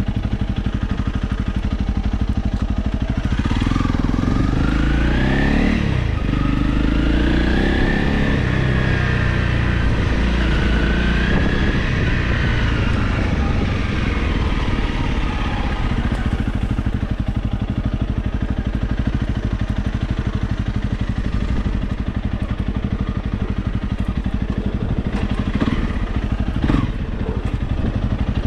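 Honda CRF Rally motorcycle's single-cylinder engine running while riding off-road. A few seconds in it revs up, its pitch rising and holding high, then easing back to steadier running. A few sharp knocks come near the end.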